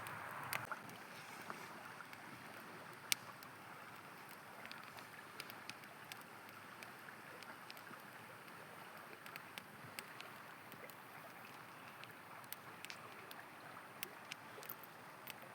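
A river flowing with a steady rush, over which a campfire crackles: scattered sharp pops and snaps of burning wood, the loudest about three seconds in.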